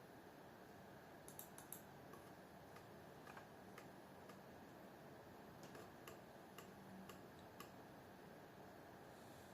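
Near silence with a low steady hiss and faint clicks: a quick run of four clicks about a second in, then single clicks roughly every half second that stop near the end.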